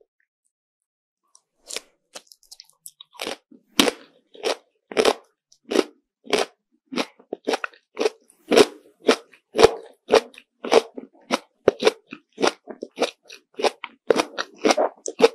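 Close-miked mouth chewing a bear-shaped treat with closed lips. After a moment of quiet, there are steady short, crisp chews at about two a second.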